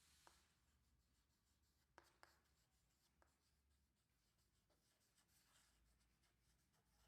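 Near silence with faint writing sounds: light scratching of a pen and a few soft taps.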